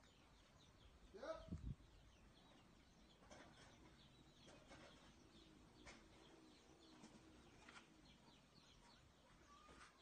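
Faint bird calls and chirps, with a brief louder sound about a second in.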